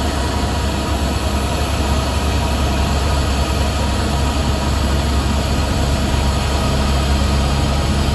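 Helicopter in flight: a steady, loud drone of turbine engine and rotor, heavy in the low end and unchanging throughout.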